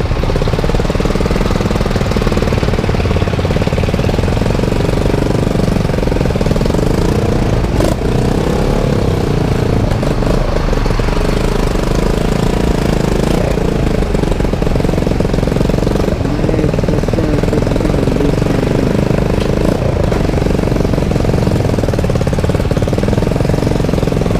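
Motorcycle engine running steadily with a rapid low pulsing, its pitch wavering slightly.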